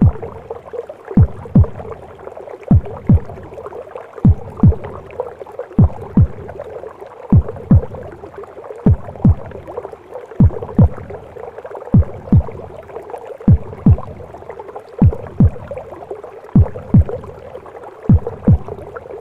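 Recorded heartbeat, slow and steady: a low lub-dub double thump about every one and a half seconds, over a constant muffled whooshing womb noise.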